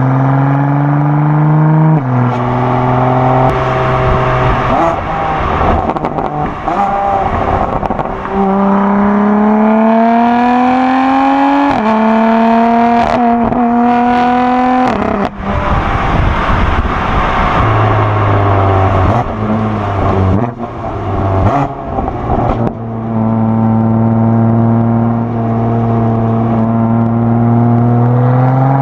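BMW M4 Competition's S55 twin-turbo inline-six, breathing through a custom equal-length, non-resonated midpipe with stock downpipe and backbox, pulling hard through the gears. Its pitch climbs and then drops sharply at each upshift. Midway, off throttle, it gives a run of sharp cracks, then holds a steady drone before climbing again near the end.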